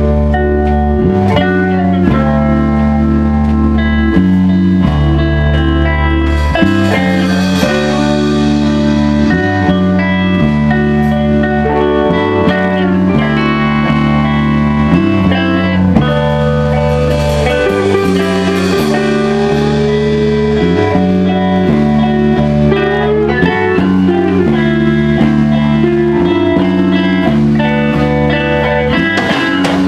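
A rock band playing live: electric guitar over a repeating bass riff, with cymbals and drums coming in about seven seconds in.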